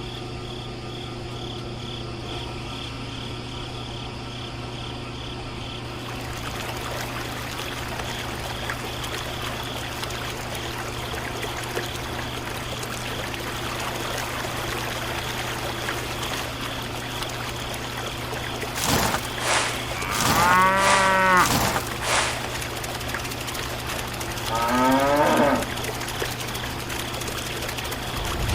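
A steady low hum all through, and in the second half an animal calling twice: drawn-out calls that rise and fall in pitch, the first about three seconds long, the second shorter.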